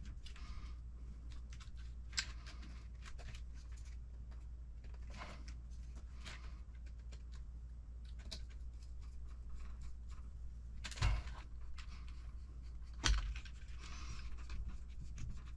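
Small parts of an RC truck kit being handled on a workbench: scattered light clicks and rattles, with two louder knocks about 11 and 13 seconds in, over a faint steady low hum.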